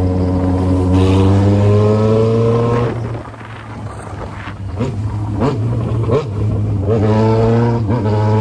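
Yamaha XJ6's inline-four engine pulling under acceleration while ridden, its pitch rising steadily. About three seconds in it eases off, with a few short rises and falls in revs. Near the end it pulls steadily again over a constant low drone.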